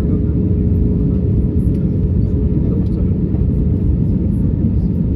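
Airbus A320 airliner in flight: a steady low rumble of engines and airflow with a constant hum over it.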